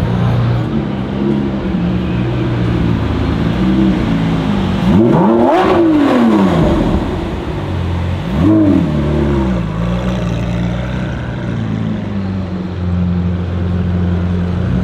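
Performance car engine idling, revved twice: a rev that rises and falls about five seconds in, and a shorter blip a few seconds later, then back to a steady idle.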